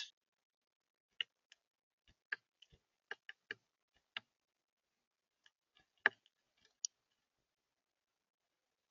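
Sharp taps and clicks on a bird feeder, about ten at irregular intervals, the loudest at the very start: a bird pecking at seed.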